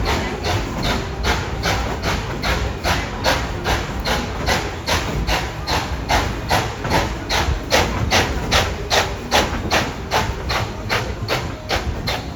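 Steam locomotive exhaust chuffing in a steady rhythm, about three chuffs a second, over the low rumble of the moving train.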